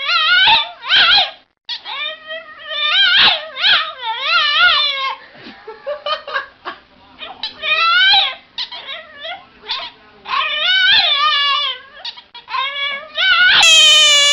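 A dog whining and howling in a series of high calls whose pitch wavers up and down, with short breaks between them.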